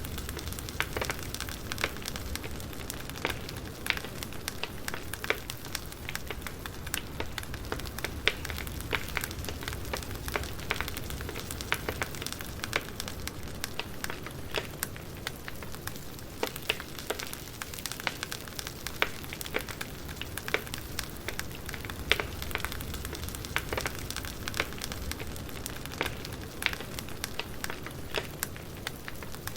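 Wood fire crackling: a steady hiss and low rumble with irregular sharp pops and snaps scattered throughout.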